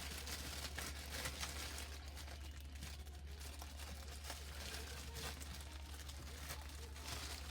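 Faint rustling and light clicks of hands and a tool working on a truck battery's positive terminal, over a steady low hum.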